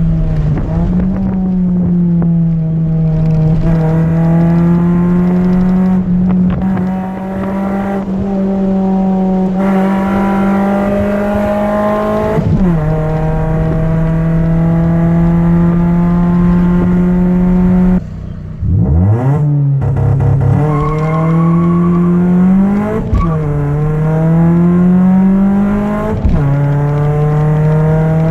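Chevrolet Celta 1.0's four-cylinder engine, breathing through a 4-into-1 header and a two-inch straight exhaust with no mufflers, running loud at a steady high rev for long stretches. Near the middle the revs drop sharply and climb back. Near the end the pitch twice rises gradually and then drops suddenly.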